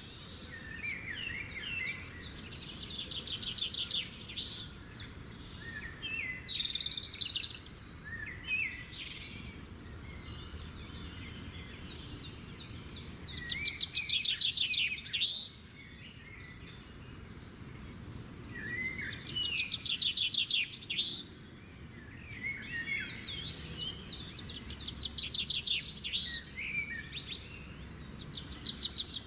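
Birds singing and chirping: rapid trilled phrases and short calls, coming in bouts every few seconds, over a steady low background hum.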